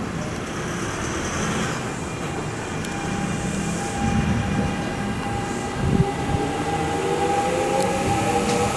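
Kintetsu Minami-Osaka Line electric train running into the platform close by, with wheel-on-rail noise growing louder. A steady electric whine sets in about three seconds in, and there is a single knock of the wheels about six seconds in.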